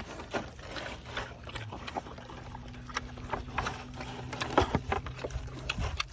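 Pigs eating: irregular chewing and smacking clicks, over a low steady hum.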